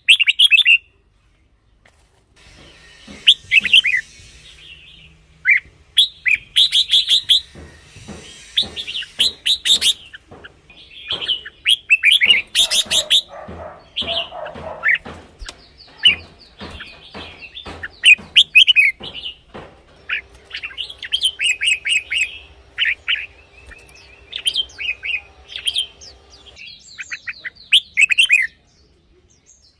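Red-whiskered bulbuls singing: a run of short, bright, chirpy phrases, one after another with brief pauses.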